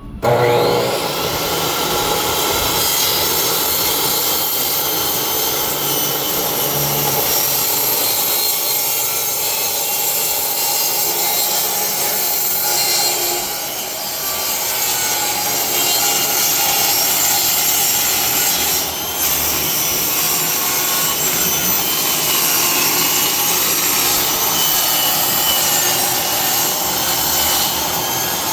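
Table saw running and cutting through a wooden board for a shelf side: a loud, steady whine that starts abruptly and dips briefly about halfway through and again a few seconds later as the load on the blade changes.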